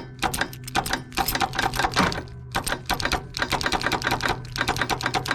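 Electric starter cranking the John Deere LX255's Kohler 15 horsepower engine in several short bursts: a fast clatter of strokes that never catches and runs. The starter seems not to be getting enough power.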